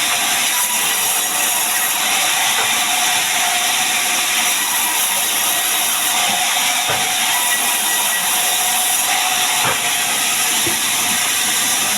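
Chainsaw running steadily as it cuts mahogany into beams, under a loud, even hiss of heavy rain.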